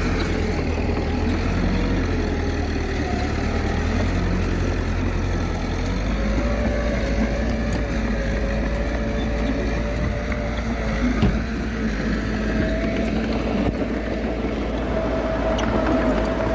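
Small bulldozer's diesel engine running steadily under a low rumble, its pitch drifting up and down as the load changes.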